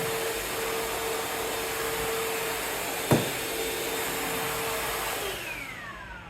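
Vacuum cleaner running with a steady whooshing hum, a sharp knock about halfway through, then switched off near the end, its motor winding down with a falling whine.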